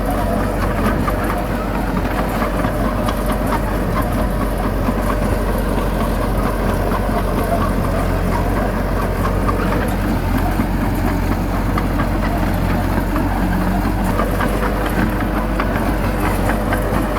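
Heavy diesel engine of earthmoving machinery running steadily at an even pitch, with light rattling over it.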